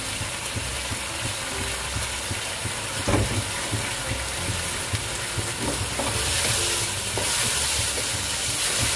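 Shark meat frying in a wok: a steady sizzle with the scrape and knock of a wooden spatula stirring, one louder knock about three seconds in. The sizzle grows louder in the second half.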